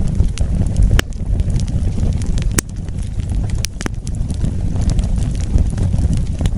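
Wood fire burning with a steady low roar of flames and sharp, irregular crackles and pops, the loudest about a second in and again about two and a half seconds in.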